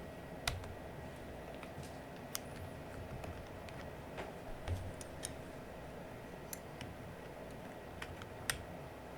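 Scattered light plastic clicks and taps from keycaps being worked off an Aula F99 Pro mechanical keyboard, about a dozen at irregular intervals over a faint steady background hum.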